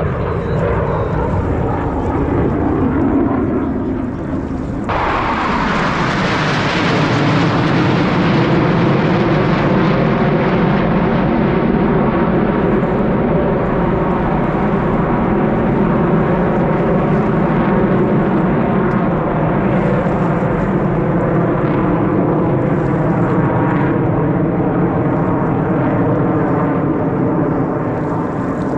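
Blue Angels F/A-18 Super Hornet jets flying over, their pitch falling at first. About five seconds in, a loud jet roar sets in suddenly and holds steady.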